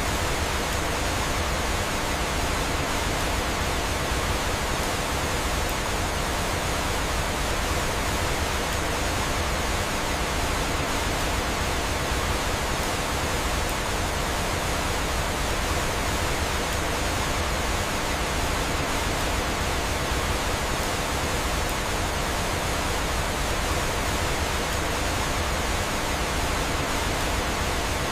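Steady rush of flowing water falling in a cascade: an even, unbroken hiss with no distinct events.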